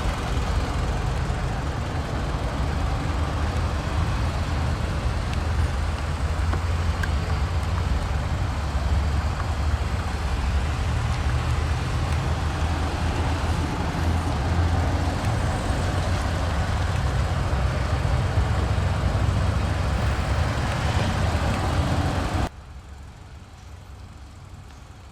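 2010 Citroën C-Crosser's 2.4-litre inline-four engine idling, a steady low rumble. About three seconds before the end it drops off abruptly, leaving a much quieter background.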